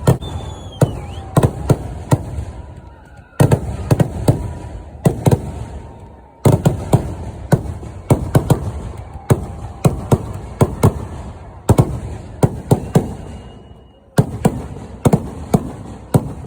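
Fireworks display: volleys of loud, sharp bangs, often several a second, each trailing off in an echoing rumble, the barrages breaking off and starting again every few seconds. A few faint whistling tones glide over the bangs.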